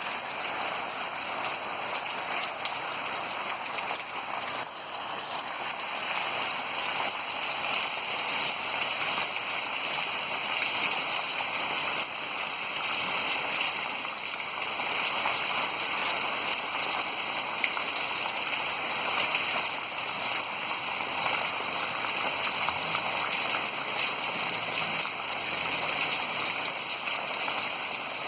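Heavy rain falling and running water, a steady unbroken hiss.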